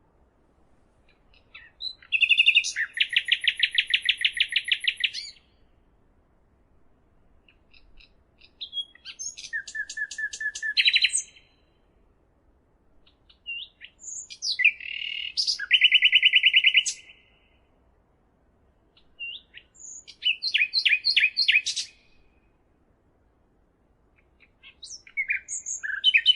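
A songbird singing five phrases of rapid high trills and chirps, each two to three seconds long, with short silent pauses between them.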